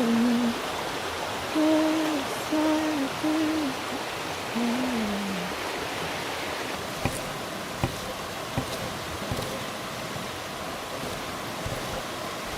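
Steady rushing water, like a stream. In the first half there are four or five short, low, hoot-like tones, the last one sliding down in pitch. Scattered sharp clicks and knocks follow in the second half.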